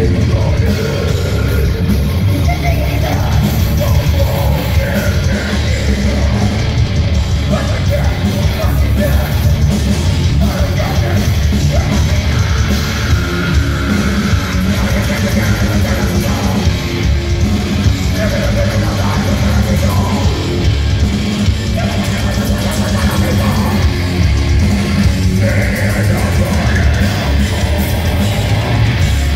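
Live heavy metal band playing loud, with distorted guitars, drums and a yelled, screamed vocal.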